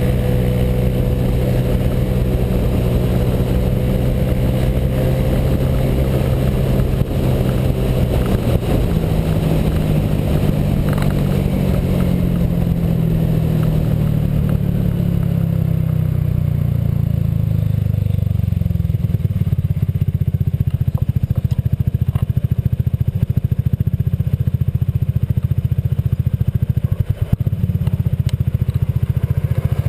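Honda PCX scooter's single-cylinder four-stroke engine and exhaust under way, with a J.Costa variator fitted. The engine note holds steady at first, falls in pitch from about a quarter of the way in as the scooter slows, then settles into a low, pulsing run for the rest.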